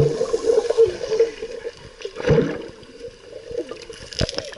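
Sea water sloshing and splashing close to the microphone, in irregular surges with a sharp knock near the end.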